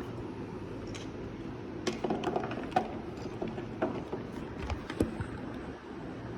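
A run of small clicks and knocks from a hand shower's parts being handled and worked with a small screwdriver, bunched between about two and five seconds in, over a steady low hum.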